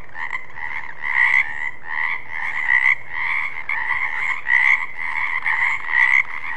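Frog croaking over and over, a steady run of raspy calls repeating about twice a second, some louder than others.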